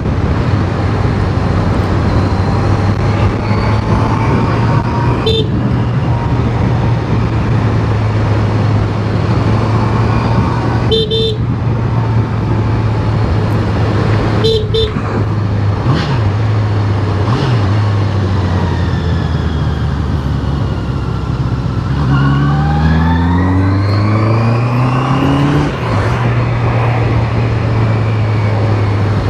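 Honda CBR650R's inline-four engine running steadily under way with wind and road noise. A few short horn beeps come about 11 and 14 seconds in, and about 22 seconds in the engine revs up, its pitch rising for a few seconds before dropping back.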